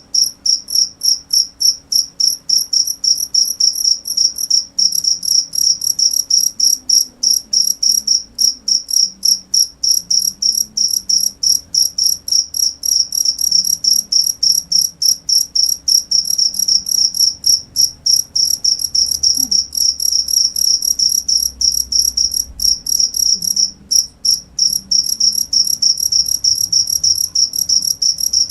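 A cricket chirping: a fast, unbroken run of high-pitched pulses, with one short break about three-quarters of the way through.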